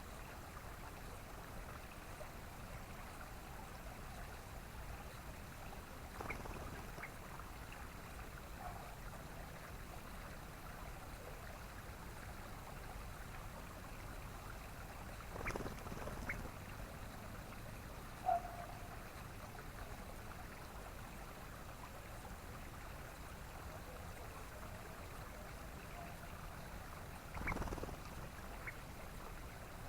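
Steady running water of a stream, with a few short, sharp bird calls spread through it. The calls are those of yellow-vented bulbuls (trucukan).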